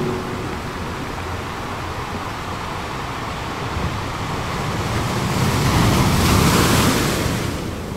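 Waves washing in: a steady rush that swells to its loudest about six to seven seconds in, then eases off.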